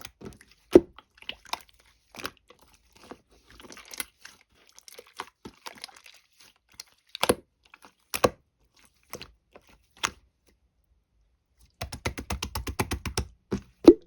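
Clear slime being worked by hand, making irregular sticky clicks and pops, a few of them sharp and loud. Near the end comes a quick run of rapid clicks, about ten a second.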